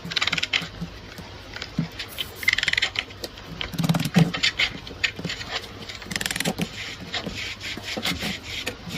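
Irregular scraping strokes and sharp clicks of hand tools working on metal, as in cleaning or loosening a rusted gun.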